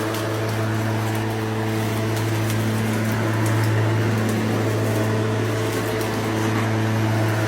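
Lawn mower running steadily with a strong even hum, used to suck up fallen leaves, with faint scattered ticks of debris.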